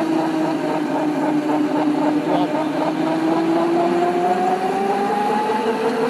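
Mini bike's small engine running, holding a steady pitch and then rising from about four seconds in as it speeds up.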